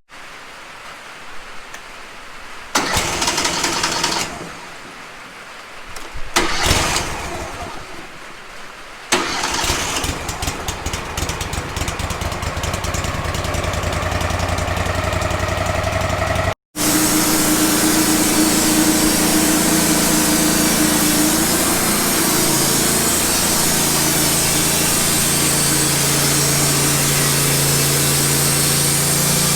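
Wood-Mizer LT15 band sawmill: its engine starts in a couple of short bursts, then runs steadily. After a sudden break it is louder and denser, the band blade sawing through a large pine log.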